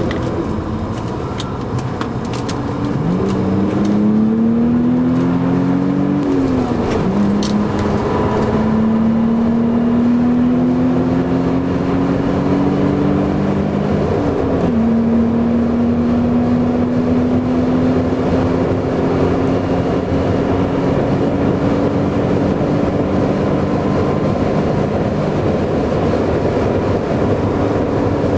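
BMW Z3 2.8's straight-six engine heard from inside the cabin, accelerating through the gears: the revs climb quickly, drop at an upshift about six seconds in, climb more slowly, drop at a second shift about fourteen seconds in, then climb slowly again. Road and wind noise run underneath.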